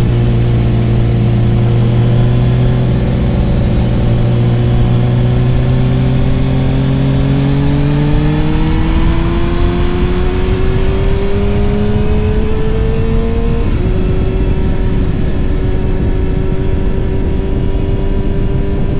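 Motorcycle engine running under way, with wind and road noise: the engine pitch climbs steadily as it accelerates, then drops suddenly after about fourteen seconds with an upshift and holds steady.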